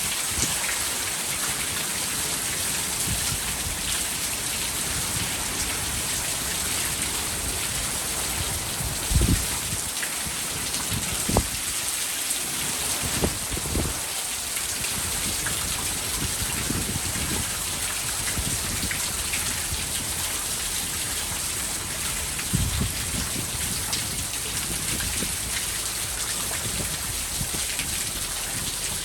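Heavy rain falling steadily in a dense hiss, with a few short low thumps scattered through it.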